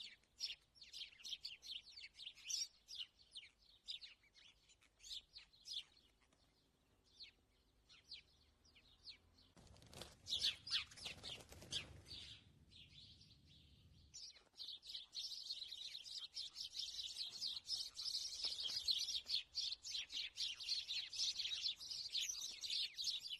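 Small garden birds chirping and twittering, many short calls that become a dense, continuous chatter in the second half. A few seconds of low rustling noise come in around ten seconds in.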